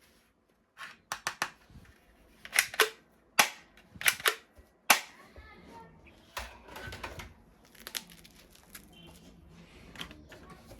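Toy gun firing: a string of sharp, shot-like cracks, some in quick pairs, over the first five seconds, followed by fainter clicks and handling rustle.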